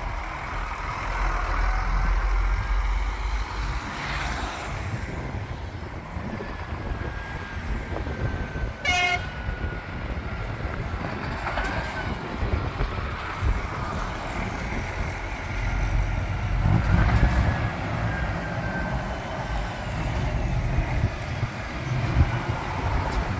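Lorry engines running as trucks drive past, with a short blast of an air horn about nine seconds in.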